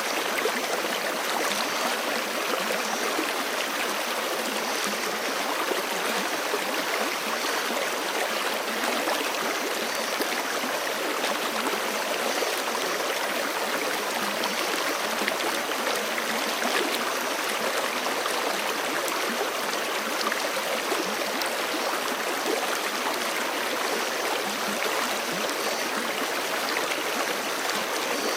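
Forest creek flowing steadily: an even rushing with little low rumble.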